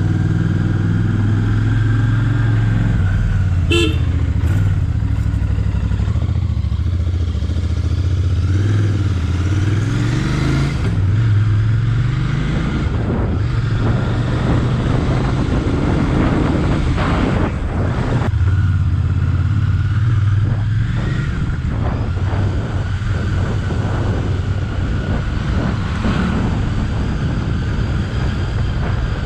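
Royal Enfield Bear 650's 648 cc parallel-twin engine running on the move, heard onboard with wind rushing over the microphone; the engine pitch rises around ten seconds in and then drops back. A short horn toot about four seconds in.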